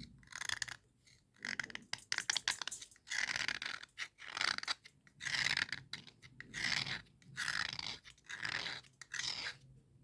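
Dry scraping strokes of cubical slate pencils, about one stroke a second, with a run of short crunchy clicks about two seconds in.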